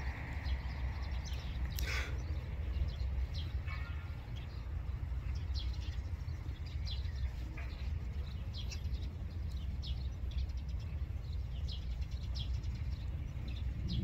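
Birds calling with short high chirps, scattered throughout, over a low steady rumble.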